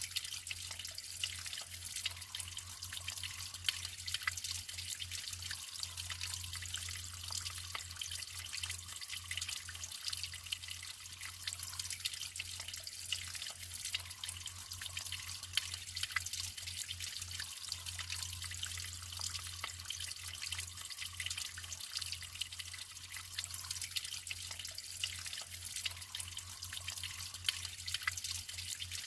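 Natural running water trickling steadily, with many small drips and splashes.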